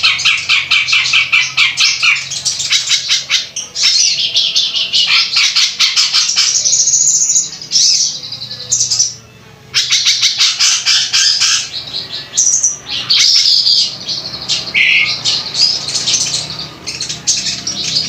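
Harsh songbird calls: fast runs of sharp repeated chip notes alternating with whistled phrases and chatter, with a short pause about nine seconds in. This is rough masteran song, played to tutor caged songbirds.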